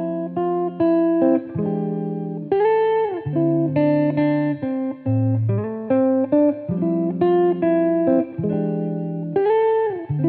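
Instrumental guitar music: plucked notes and chords in a steady run, with a couple of notes bent up and back down in pitch.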